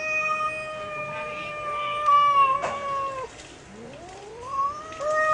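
A cat yowling: one long, drawn-out wail that sinks a little in pitch and cuts off about three seconds in, then a second yowl that rises steeply and holds. It is the defensive caterwaul of a cat cornered by dogs.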